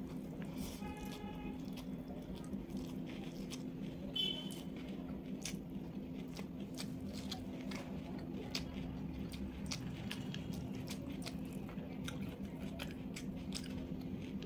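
Close-miked chewing and biting of a rice-and-curry meal eaten by hand: a steady run of wet mouth clicks and small crunches over a low steady hum, with a short high-pitched sound about four seconds in.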